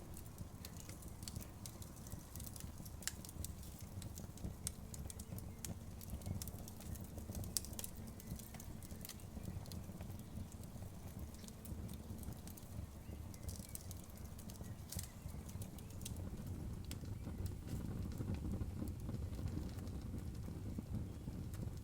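Wood campfire burning: a steady low rumble of flames with irregular sharp crackles and pops from the burning wood, a few louder snaps among them.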